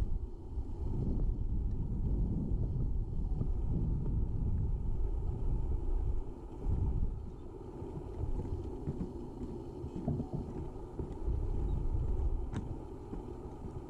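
Wind buffeting the microphone: a gusting low rumble that swells and eases, with a few faint clicks.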